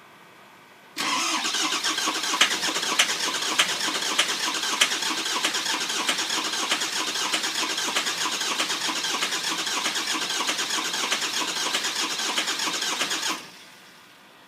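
Ford 6.0 Power Stroke V8 turbo-diesel being cranked by its starter for about twelve seconds without starting, with a few sharper beats in the first few seconds; the cranking stops suddenly. It is a long crank–no start: the engine cranks and fires but does not run.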